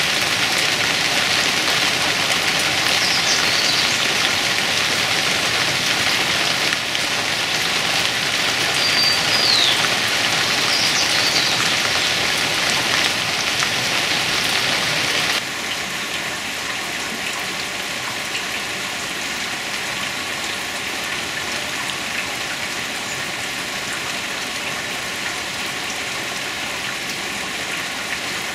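Heavy rain falling on a gravel yard and garden foliage, a dense steady hiss that drops to a quieter level about halfway through. A few brief high chirps sound over the rain in the first half.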